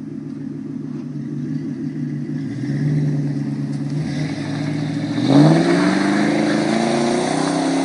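Exhaust of a 1999 Ford Crown Victoria Police Interceptor's 4.6-litre V8 idling, then revved about five seconds in, the pitch rising and held at higher revs.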